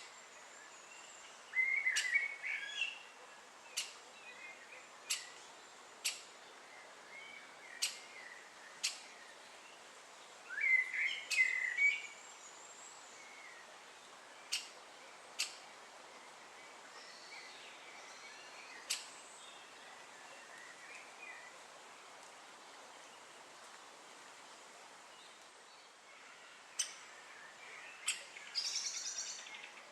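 Great spotted woodpeckers calling: short, sharp single notes at irregular intervals, roughly one every second or two, with brief bursts of chattering about two seconds in, around eleven seconds and near the end.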